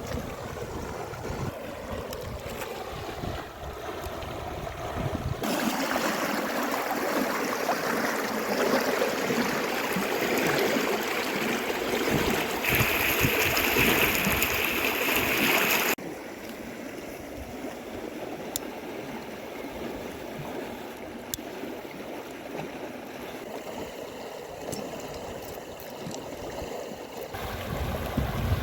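River water rushing steadily, with wind buffeting the microphone at the start and near the end. The rush jumps louder about five seconds in and drops suddenly a little past the middle.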